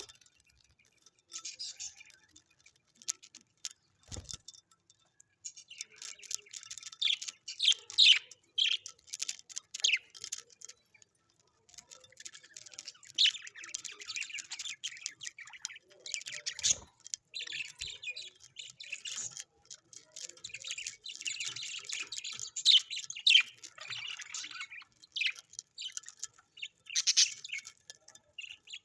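Small birds chirping in fast, high-pitched bursts that come in clusters of a few seconds with short pauses between.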